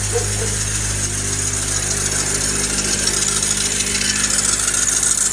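Engine running with a steady screeching grind from the belt-driven accessories, growing a little louder toward the end. It is the sign of a bad pump and a failing idler pulley.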